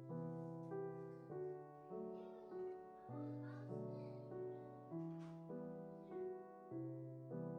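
Soft background piano music, notes struck at a slow, even pace, each one fading before the next.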